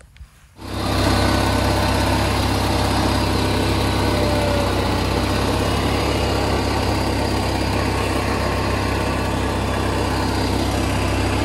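An engine running steadily at an even speed, cutting in abruptly about half a second in.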